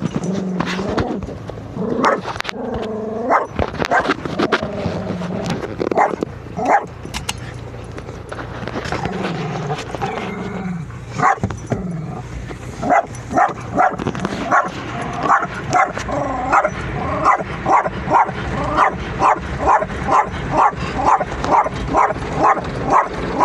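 A dog whining and whimpering in wavering, pitched cries, then barking in a steady run of short barks, about three every two seconds, through the second half.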